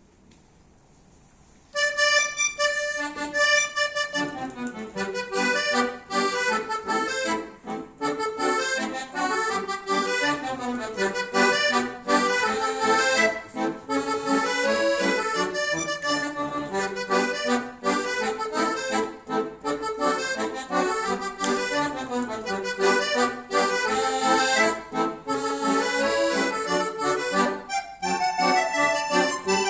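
Two accordions playing a duet. The music starts about two seconds in with a few held notes, then moves into quick running notes.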